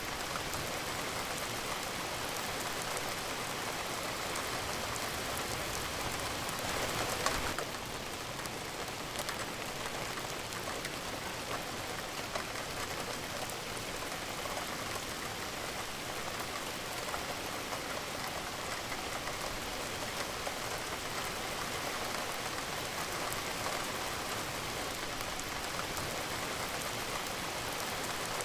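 Steady rain falling on a surface, a dense even hiss of drops with fine individual patters, swelling briefly louder about seven seconds in.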